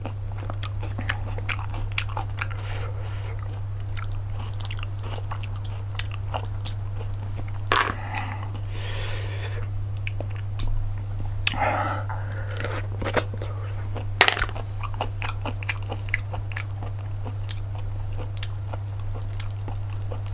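Close-up eating of cockles: chewing with many small clicks from the shellfish and shells, and a few louder cracks about 8 and 14 seconds in. A steady low hum runs underneath.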